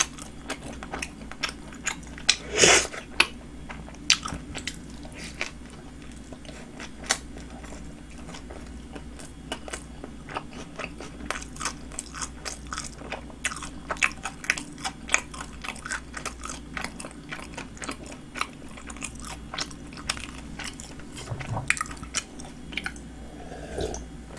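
Close-miked chewing and biting of a Subway flatbread sandwich: a run of wet mouth clicks and soft crunches, loudest about three seconds in.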